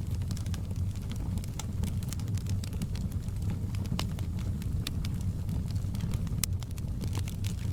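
Wood fire burning in a fireplace: a steady low rumble with irregular crackles and small sharp pops throughout.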